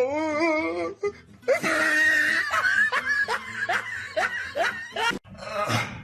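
Music with laughter: a run of short, repeated laughing sounds over it.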